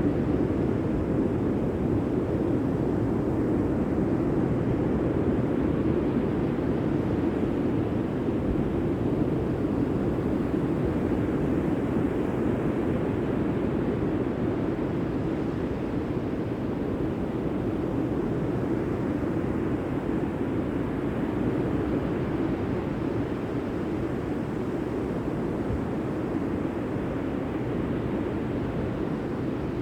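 Steady rushing noise of sea surf and wind, with no distinct breaks or impacts.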